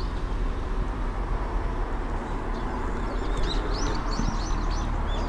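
Small birds chirping: a quick series of short high calls, several a second, starting about halfway through, over a steady low rumble of outdoor background noise.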